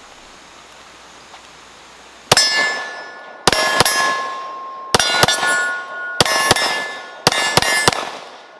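About ten 9mm shots from a Glock P80 pistol, fired in quick pairs and triples, starting a little over two seconds in. Steel targets ring out with a sustained metallic ring after the hits.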